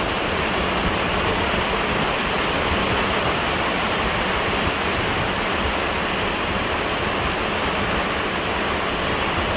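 Heavy downpour of rain falling steadily, an even, unbroken rush of noise.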